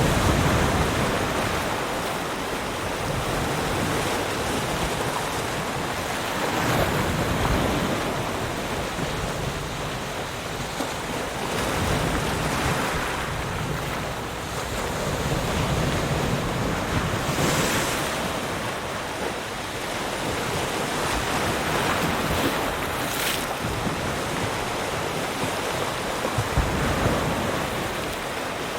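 Ocean surf: waves breaking and washing over a constant roar of water, each wave swelling every few seconds, with some wind on the microphone.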